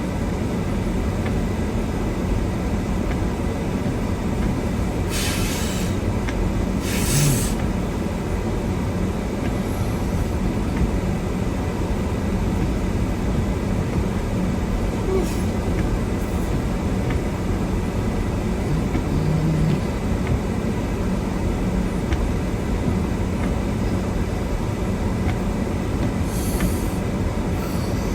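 Steady low rumble of a car heard from inside the cabin in a snowstorm. Short hisses come through about five and seven seconds in and again near the end.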